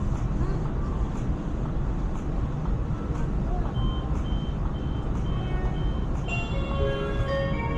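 Steady low rumble of the ETS electric train standing at the platform, with a high electronic beep repeating about two to three times a second starting about four seconds in, then a multi-tone electronic chime near the end, the signal that comes before the door-closing announcement.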